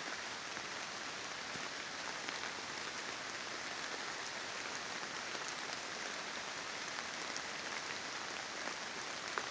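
Steady rain falling through a leafy summer forest canopy, an even patter of drops on leaves with a few faint individual drips.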